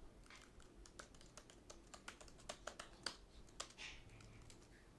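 Near silence with faint, irregular light clicks and taps, a dozen or so spread across a few seconds.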